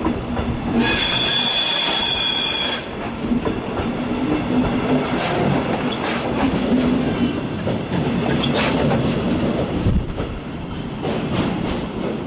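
Double-decker regional train passing close by, its wheels rumbling and clacking on the rails. About a second in, a high steady wheel squeal rings out for roughly two seconds.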